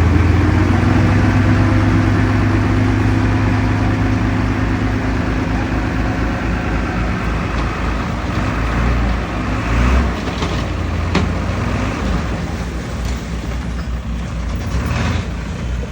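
Heavy diesel engine of earthmoving machinery running with a steady low note that eases off after about six seconds, with two short metallic knocks around ten and eleven seconds in.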